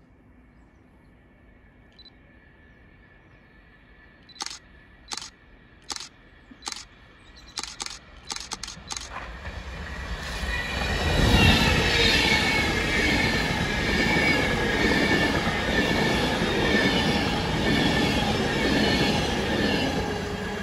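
A run of sharp clicks, then a train passing close by: a loud rush of wheels on rail that builds up quickly, carrying high-pitched wheel ringing that slides down in pitch, and fading near the end.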